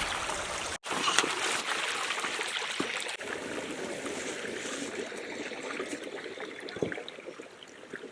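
Creek water running over rocks, a steady rushing trickle, with a couple of faint small knocks; the sound cuts out for an instant about a second in.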